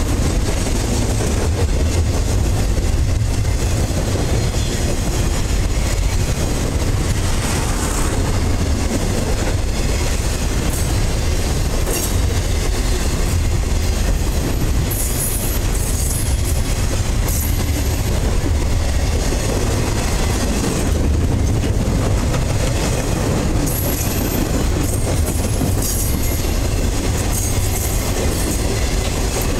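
Freight train's container cars rolling past close by: a steady rumble of steel wheels on rail with clickety-clack over the rail joints, and brief high wheel squeals several times.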